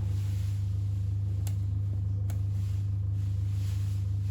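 Steady low hum with two faint clicks a little under a second apart in the middle.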